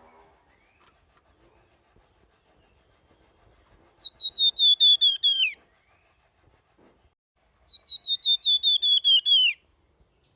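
Flamboyan bird singing: two loud phrases, each about a second and a half, of rapid high whistled notes repeated in a quick series, each phrase ending in a falling slur. The notes are flute-like ('nyuling').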